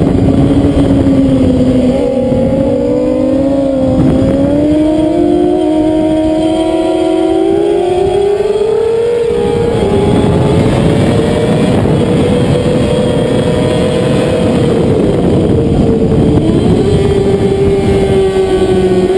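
Middleweight race motorcycle engine running hard at high revs, heard from on board. Its pitch climbs over the first half as the bike accelerates, holds high, then eases a little in the last few seconds.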